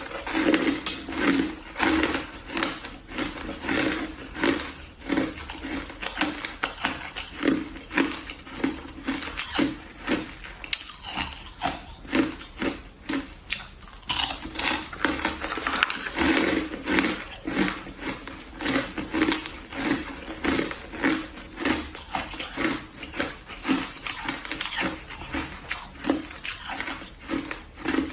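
A person chewing and crunching hard shaved ice, a steady run of crisp crunches about two a second.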